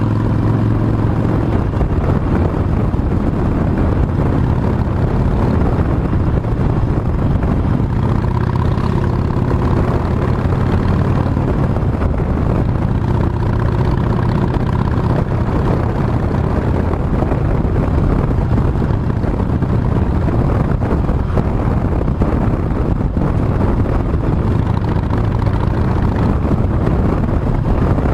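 Harley-Davidson Sportster Forty-Eight's V-twin engine running steadily while riding, its pitch shifting with the throttle.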